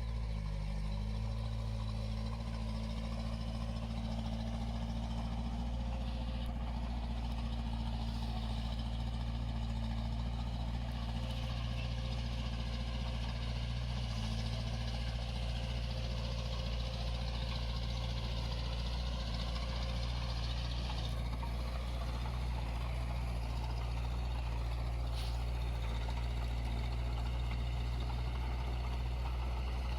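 Diesel engine of a small Komatsu D21 bulldozer running steadily at work, with a hissy scraping noise rising over it for about ten seconds in the middle.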